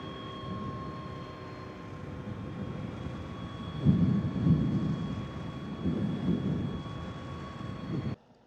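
Energica Experia electric motorcycle on the move: the electric drive's steady high whine over low wind rumble, which swells louder about four and six seconds in. The sound cuts off suddenly near the end.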